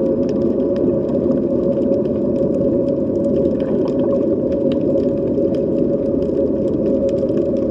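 Underwater sea ambience: a steady droning hum with one held tone, over a low rumble, with scattered faint clicks.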